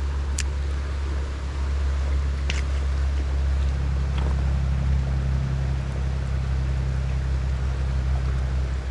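Steady rushing of river water with wind rumbling on the microphone, and a couple of brief clicks in the first few seconds.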